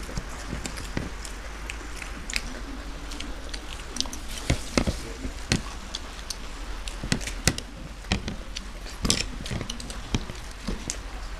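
Crunching and chewing of crisp fried katori chaat pastry cups, with irregular sharp crunches throughout.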